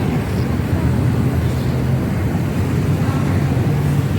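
Steady low mechanical rumble with a faint hum, running evenly without knocks or breaks.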